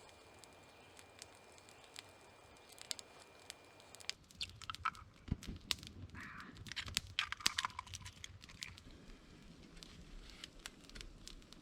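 Wood campfire crackling with irregular sharp pops. About four seconds in the sound changes abruptly and the crackling becomes busier, over a low rumble.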